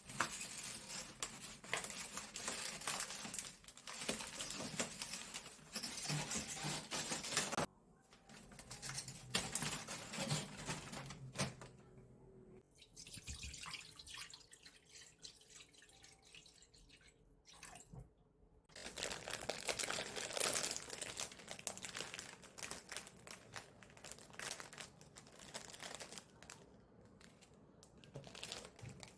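Water running and splashing, as from a sink tap, in several long stretches broken by short pauses.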